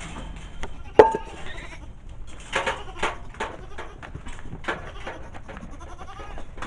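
Goats bleating several times in short calls. A sharp knock about a second in is the loudest sound.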